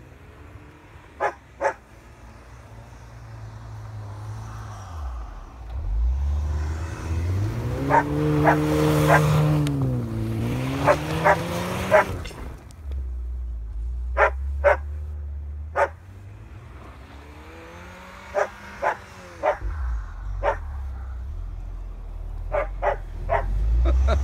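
Volkswagen Golf 7 R's turbocharged 2.0-litre four-cylinder revving up and down as the car slides through deep snow, loudest in the middle, with a fainter rise and fall later. A dog barks again and again throughout, in single barks and quick bunches of two or three.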